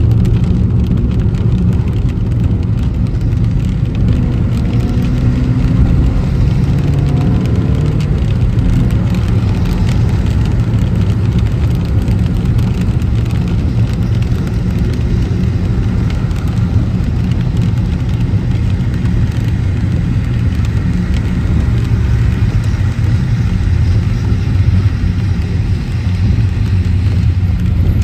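Car driving on a city road: a steady low rumble of engine and tyre noise, with the engine's pitch rising briefly a few seconds in as it accelerates.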